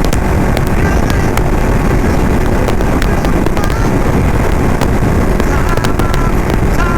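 Ducati motorcycle underway, its engine running steadily under wind rushing over the microphone, with a few brief high chirps on top.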